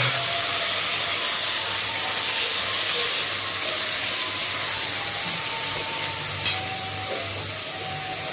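Potatoes, onions and chopped tomatoes sizzling steadily in hot oil in an aluminium kadai while a metal spatula stirs them. The spatula knocks sharply against the pan a few times.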